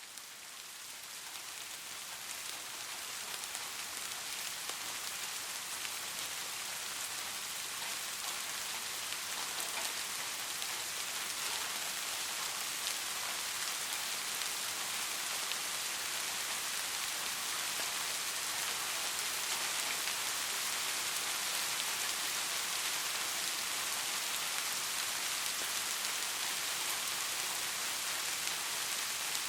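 Steady, heavy rain falling in a dense, even patter. It swells up from faint to full over the first few seconds, then holds steady.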